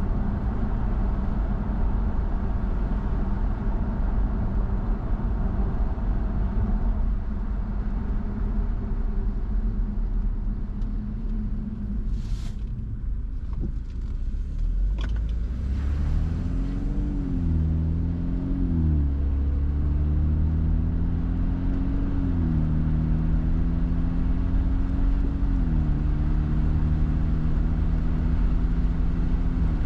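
Car driving: steady tyre and road rumble, easing off about halfway with a couple of short clicks, then the engine note climbs and drops back in steps as the car accelerates up through the gears.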